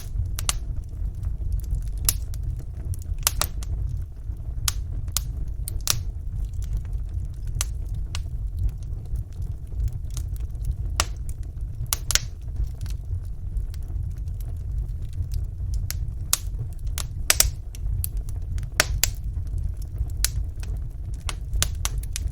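Wood fire burning in a fireplace: a steady low rumble of the flames with small sharp crackles and pops at irregular intervals.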